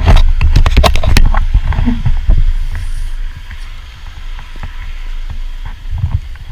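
Heavy low rumble of wind and motorcycle noise on a bike-mounted camera microphone. A rapid run of sharp knocks and clicks comes in the first second, and the rumble then settles steadier and quieter.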